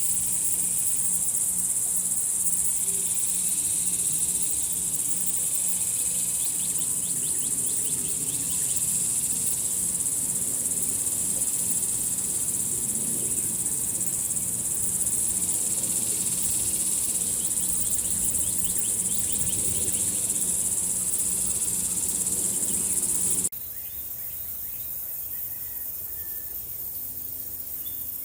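A dense, steady, high-pitched insect chorus trills on without a break, then cuts off abruptly about 23 seconds in at an edit. After the cut there is quieter outdoor ambience, with a short bird call near the end.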